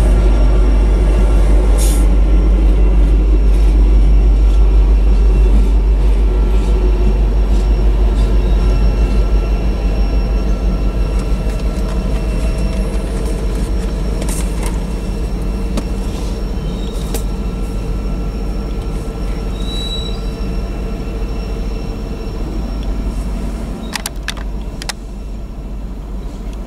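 Freight train cars rolling past on the rails, steady at first, then fading from about ten seconds in as the end of the train passes and moves away.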